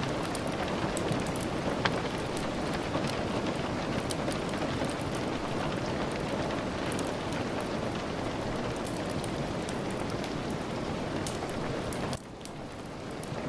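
Steady rain with a scatter of small sharp crackles from a wood fire. Near the end the sound drops away suddenly and swells back.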